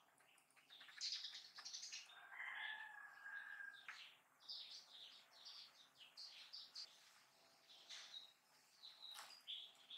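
Faint birdsong: a string of quick chirps and trills, with one held whistle a few seconds in.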